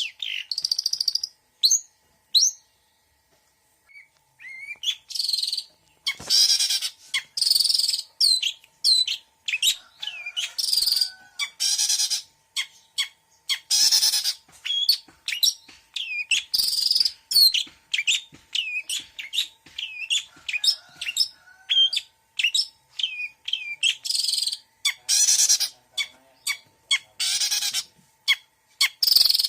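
Long-tailed shrike (cendet) singing a varied mimicking song: rapid high chirps and whistled notes broken again and again by harsh rasping bursts, after a brief pause a few seconds in.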